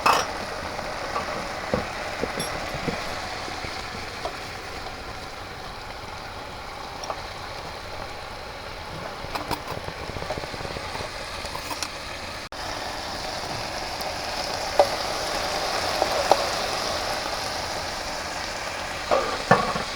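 Beef sizzling on a grill pan in a steady hiss, with scattered light clicks.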